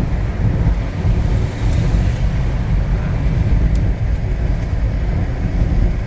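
Strong gusty wind buffeting the microphone: a loud, uneven low rumble.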